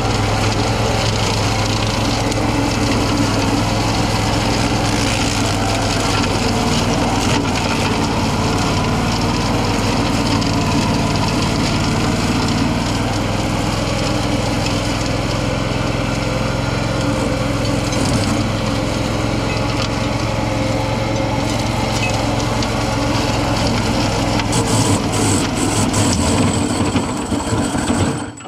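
Tractor engine running steadily at speed, driving its flail mower, with a steady mechanical hum and a whirring rush. It stops abruptly near the end.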